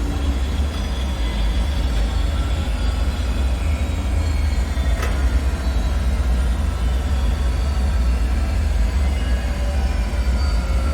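Dark ambient bunker soundscape: a steady deep rumble with faint, slowly falling eerie tones above it, and a single sharp click about five seconds in.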